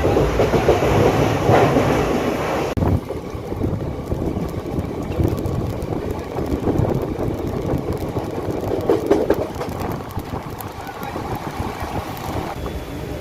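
Moving passenger train running along the track: a steady rumble with light clicking. It drops sharply in level about three seconds in, then carries on quieter.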